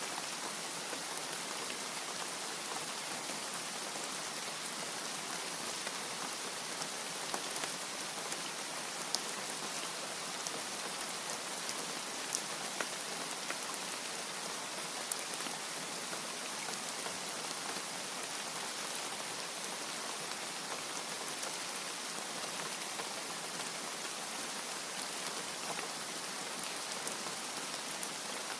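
Steady rain falling as an even hiss, with scattered sharper drop ticks.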